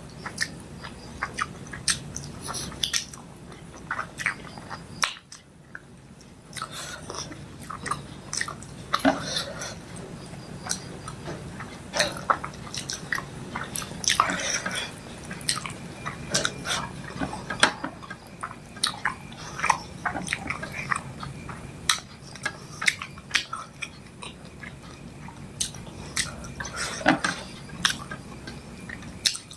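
Close-up mouth sounds of someone eating fish curry with rice: wet chewing and lip smacks, with frequent sharp clicks and a short pause a few seconds in.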